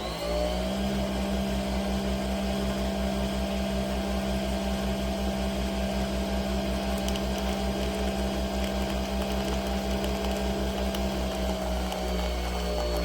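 Nespresso Vertuo Pop+ capsule machine brewing. Its motor whine rises as the capsule spins up, then holds steady over a hum and a rapid low pulsing, and dips slightly in pitch near the end.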